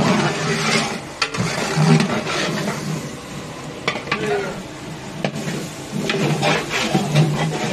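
Food frying in oil in a large cooking pot, sizzling as it is stirred with a ladle, with a few sharp metal knocks and scrapes.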